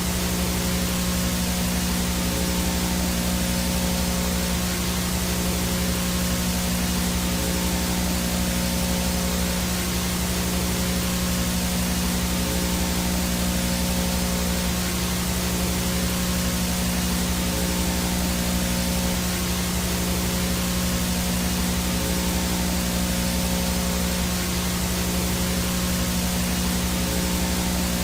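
VHS no-signal static: a steady, even hiss with a low buzzing hum and faint steady tones underneath, unchanging throughout.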